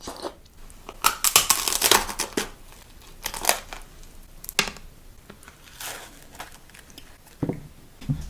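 Plastic packaging being crinkled and torn in irregular bursts, loudest and longest for a second or so about a second in, then in shorter crackles.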